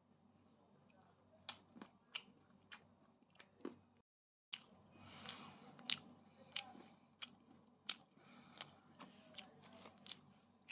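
Close-up chewing and biting of food: a run of short, sharp, crunchy clicks and wet mouth noises. The sound drops out completely for half a second about four seconds in, then the clicks come thicker and faster.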